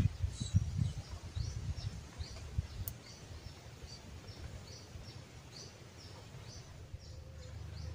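A bird calling with short, high chirps repeated every half second or so, over low, uneven rumbling noise that is heaviest in the first few seconds.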